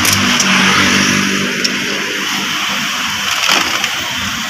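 2007 Honda Civic engine running after the original key ignition wiring was restored, sounding faster in the first second or so and then settling to a steady run.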